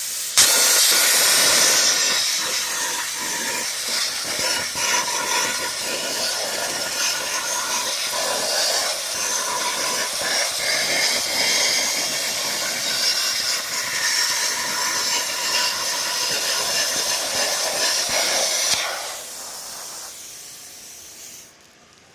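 Plasma cutter cutting thin sheet steel from a PC case: a loud, steady hiss with crackle that starts suddenly. About nineteen seconds in the arc stops and a quieter rush of air runs on for a couple of seconds before cutting off.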